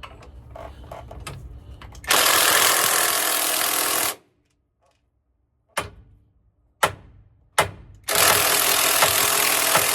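Loud steady rattling of a pneumatic tool working a stuck driveshaft yoke, in two stretches of about two seconds each, with three sharp metal knocks between them.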